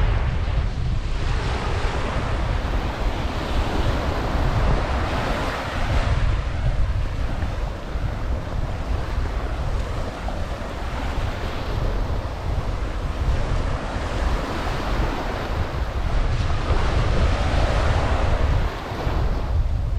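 Surf washing up the beach, swelling and ebbing several times, over a steady low rumble of wind buffeting the microphone.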